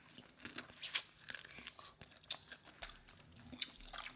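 Eating a seafood boil: shellfish shells cracking and food being bitten and chewed, a string of irregular small crunches and clicks.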